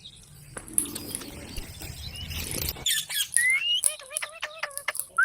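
A parrot squawking and chirping: a quick run of sharp clicks and short calls, some rising in pitch, starting about halfway through. Before that there is a soft rustling noise.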